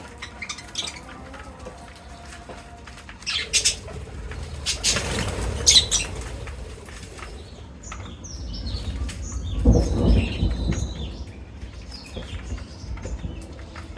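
Parrots flapping their wings in two flurries, with short high chirps in the second half and a few sharp clicks.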